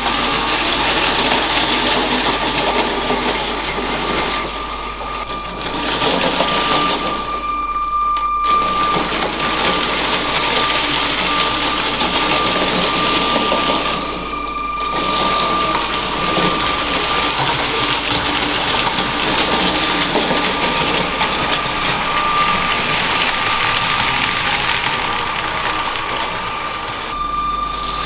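LEGO train running on plastic track: its small electric motor whines at a steady pitch over the constant rattle of the wheels on the rails. The sound drops away briefly three times.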